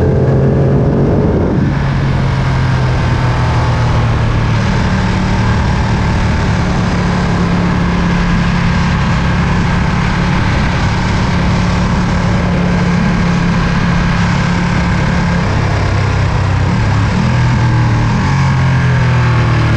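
Ducati Panigale V2's 955 cc V-twin engine running at a steady speed under way, with wind and road rush. The engine note shifts pitch in the first couple of seconds and again near the end.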